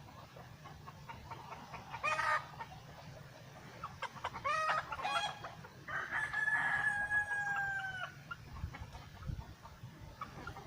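Chickens calling: short clucking calls, then a rooster crowing with one long held note about six seconds in.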